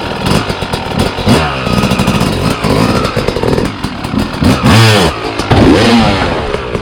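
Dirt bike engine revved hard in several rising and falling bursts as the bike accelerates and rides over an obstacle.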